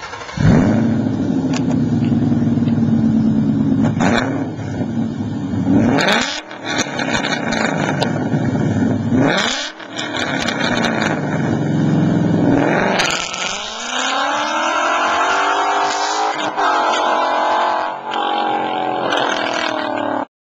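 2011 Ford Mustang GT's 5.0 V8 through Pypes long-tube headers and M-80 muffler cat-back exhaust: a deep, steady idle broken by sharp throttle blips at about four, six and nine seconds. From about thirteen seconds it pulls hard with the pitch climbing in long sweeps, dropping back twice as if through gear changes.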